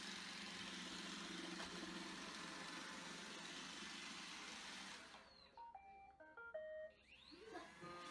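Roomba robot vacuum running with a steady hiss and hum. About five seconds in the motor noise stops and the robot plays a short electronic beeping melody of stepped tones, the kind of chime a Roomba sounds when it stops or finishes.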